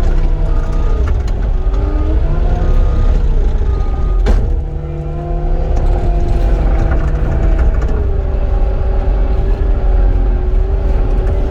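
Engine running loudly under varying load, its pitch drifting up and down, with a sharp click about four seconds in.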